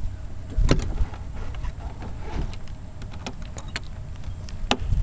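Hood of a Kawasaki 750 SX stand-up jet ski being set back on and secured: a few sharp knocks and clicks, the loudest about a second in and near the end, with lighter ticks in between.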